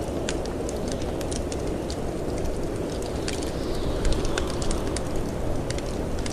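Wood fire crackling with irregular sharp pops, over a steady low rush of wind.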